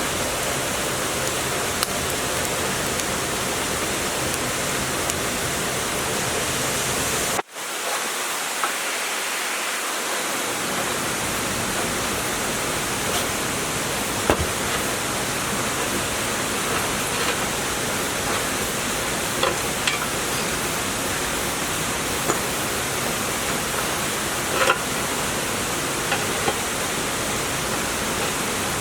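A steady rushing hiss, broken by a sudden brief cut about seven and a half seconds in, with faint light taps and clicks scattered over it.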